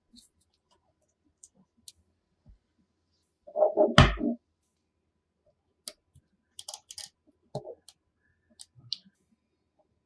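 Colored magnetic building pieces clicking and snapping together as they are handled, in scattered sharp clicks. A louder bump and clatter comes about four seconds in, with a run of quick clicks later.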